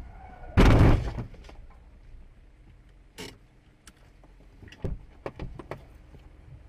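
A sudden loud thump inside a car cabin about half a second in, followed by a few fainter knocks and clicks over the low rumble of the car.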